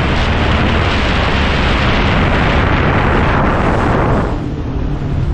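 Loud rushing of wind buffeting the microphone and water spray as a small boat runs through choppy water, easing off suddenly about four seconds in, with the boat's engine humming low underneath.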